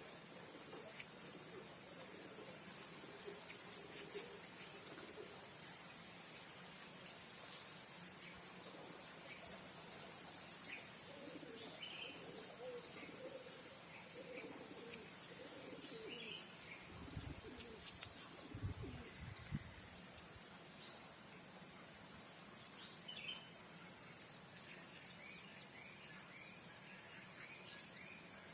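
Steady high-pitched insect chorus, crickets or cicadas trilling, with a few faint bird chirps scattered through it and a brief low rumble past the middle.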